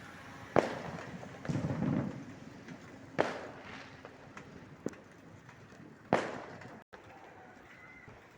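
Fireworks going off: four sharp bangs a second or more apart, each trailing off in an echo, with a rumbling burst between the first two and a smaller pop between the third and fourth.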